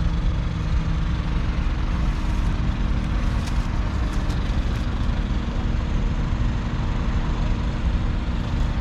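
John Deere 6210R tractor's 6.8-litre six-cylinder diesel engine running steadily with a deep, even rumble.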